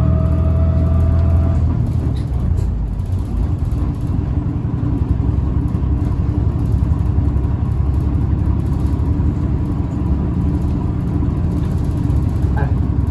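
Tokyu city bus running, heard from inside the cabin: a steady low rumble from the drivetrain and road, with a thin whine from the motor, which is known for an abnormal noise. The whine rises slightly over the first second and a half; a fainter steady whine runs through the second half.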